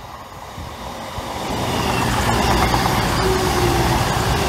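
CrossCountry Voyager diesel multiple unit running through the station without stopping. It grows louder over the first two seconds as it approaches, then holds a steady underfloor diesel engine drone with a whine and wheel noise as it passes close by.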